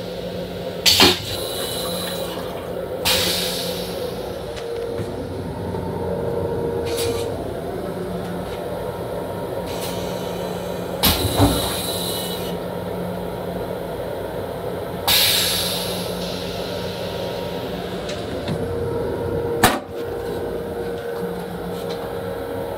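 Steady hum of an M7 electric railcar heard from inside its restroom, with several brief hissing rushes of air and a few sharp knocks, the loudest knock near the end.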